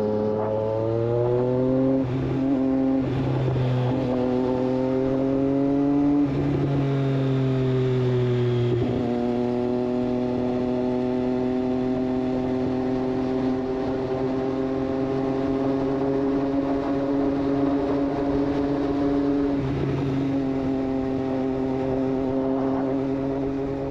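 2024 Triumph Street Triple 765 RS inline-three engine through a Racefit Growler full exhaust, accelerating through about three upshifts in the first nine seconds, each a climb in pitch followed by a sharp drop, then holding a steady cruise.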